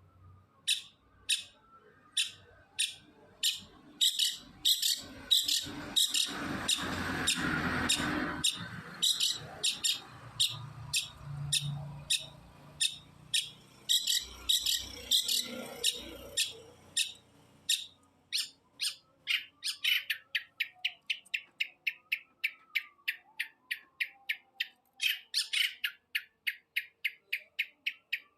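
Long-tailed shrike (cendet) singing a long unbroken string of sharp, high repeated notes. The notes come slowly at first, then speed up in the second half into a rapid run of about four a second. A rushing background noise swells and fades in the first half.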